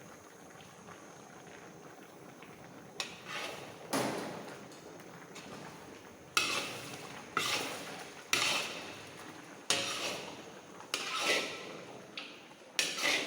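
A metal ladle scraping and knocking against a large cooking pot in a string of about ten strokes, roughly one a second, as a big batch of chicken is stirred with ground masala. They start about three seconds in, after a low steady background.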